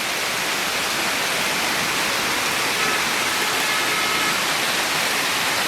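Heavy hail pelting down: a dense, steady clatter of hailstones striking hard surfaces, described as insane hail. A few faint high tones sound briefly in the middle.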